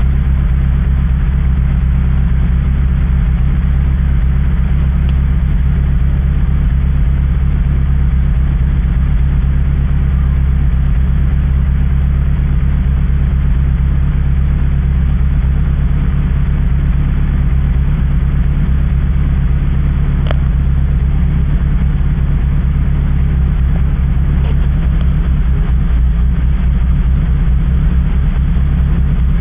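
Renault Clio 172's 2.0-litre four-cylinder engine, fitted with Engine-Dynamics performance camshafts and a ported, enlarged inlet manifold, running steadily on its first start after the work.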